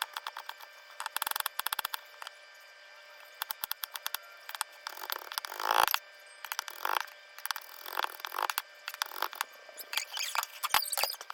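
Kitchen knife finely dicing a yellow bell pepper on a cutting board: quick runs of chopping taps, with a few longer scraping sounds between them.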